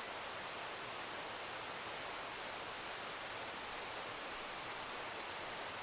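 Steady rain-sound noise, an even hiss with no separate drops or thunder standing out.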